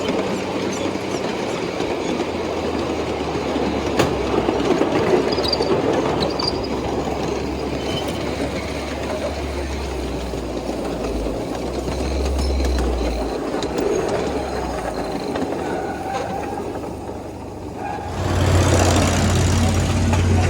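A 7¼-inch gauge live steam miniature train running along the track. About 18 seconds in, the sound changes to a louder, steady low hum.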